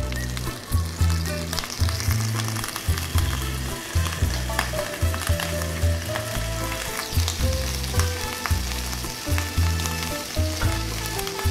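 Butter and oil sizzling and crackling in a stainless steel pan, with background music that has a steady bass line.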